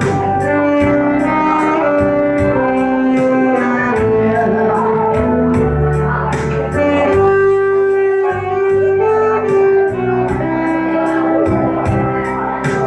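Saxophone playing a slow, held-note melody over a backing track that has a steady beat of about four hi-hat ticks a second.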